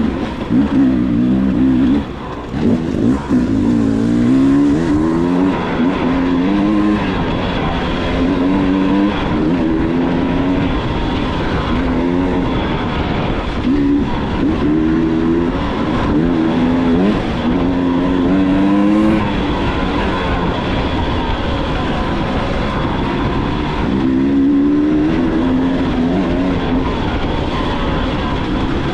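Dirt bike engine running hard, its pitch rising and dropping again and again every couple of seconds as the rider works the throttle and gears, over a constant rough rushing noise.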